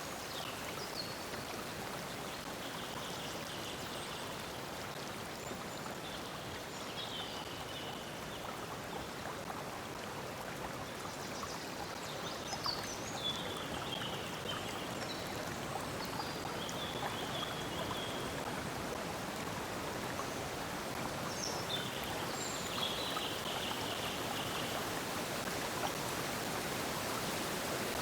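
Stream of water flowing steadily, with small birds giving short chirping trills every few seconds.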